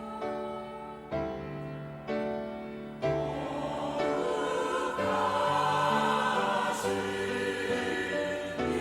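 Church choir singing a hymn, held chords changing about once a second and then moving into a fuller sung line.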